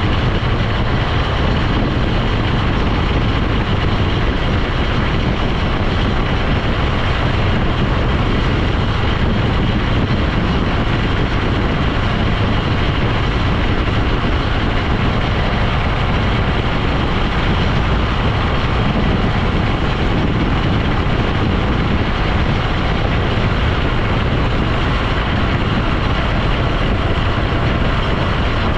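A vehicle on the move: steady engine, road and wind noise at an even speed, heavy at the low end, with no changes in pace.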